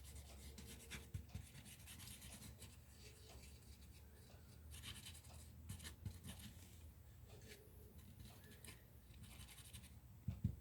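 Faint rustling and scraping of cardstock being handled and slid into place on a work surface, with a few small ticks.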